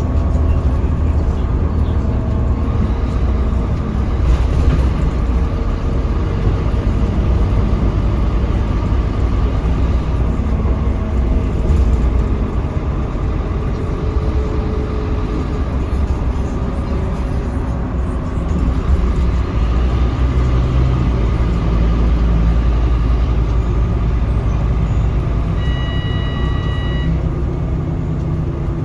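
Scania K310UB city bus riding along, heard from on board: a steady diesel engine rumble with road and cabin noise. A short electronic beep sounds near the end.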